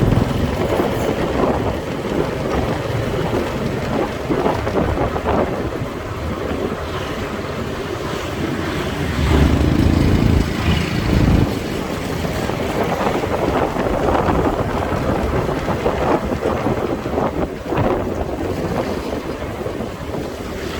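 Riding a motorbike: wind rushing over the microphone with the bike's engine and road noise beneath it, a louder low rumble swelling for about two seconds near the middle.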